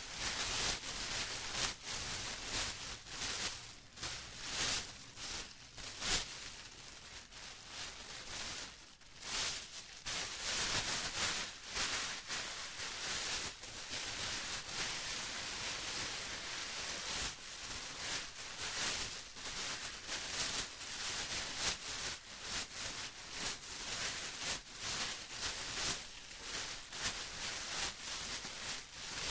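Plastic being crinkled and rustled continuously, a crisp irregular crackling with frequent small surges and no pauses.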